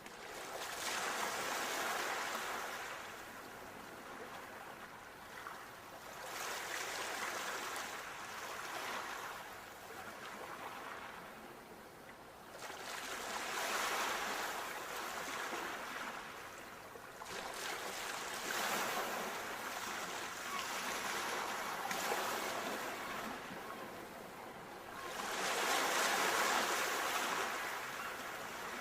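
Sea waves breaking and washing onto the shore, the surf swelling and fading every five or six seconds.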